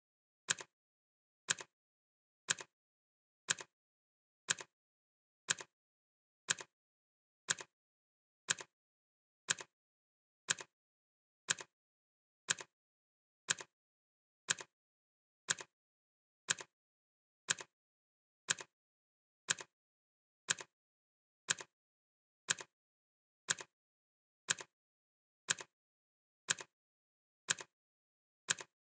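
Clock ticking sound effect: one sharp tick each second, evenly spaced, with silence in between.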